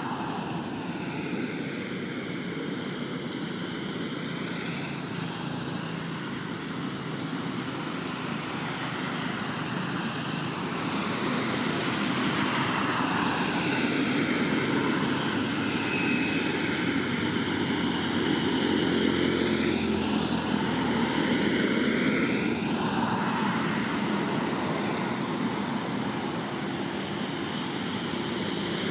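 Steady rushing engine noise of a passing vehicle or craft, with slow sweeping changes in tone, growing louder about halfway through and easing a little near the end.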